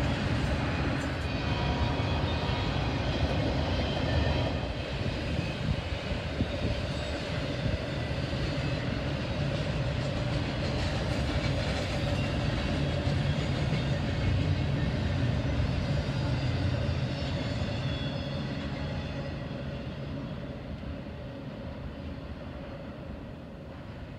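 Double-stack intermodal container train passing, its steel wheels rumbling on the rails. The sound holds steady, then fades over the last several seconds as the rear cars move away.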